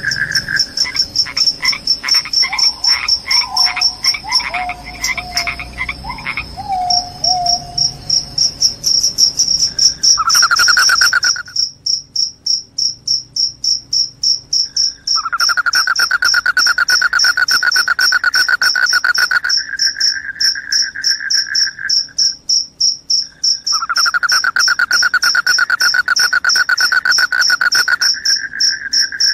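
Field crickets chirping in a fast, high, pulsing trill that never stops. A second, lower trill starts and stops in long stretches. In the first few seconds a series of separate calls falls in pitch over it.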